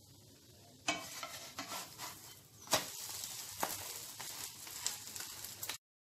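Egg chapati frying in oil in a nonstick pan: a steady sizzle with several sharp knocks and scrapes of a wooden spatula pressing it. The sizzle starts suddenly about a second in and cuts off abruptly near the end.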